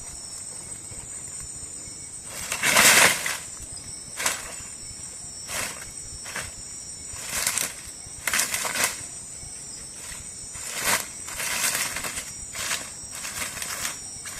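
Steady high-pitched chirring of night insects in Amazon forest. Over it come about ten short, sudden bursts of noise, the loudest about three seconds in.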